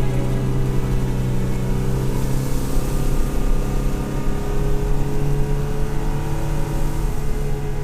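Toyota Tacoma's engine running steadily while the truck drives, its note rising a little through the middle.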